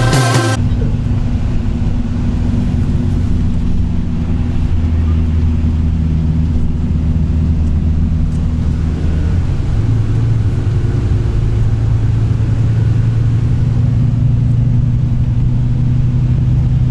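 Coach bus engine running as the bus drives, a steady low drone whose note rises about halfway through.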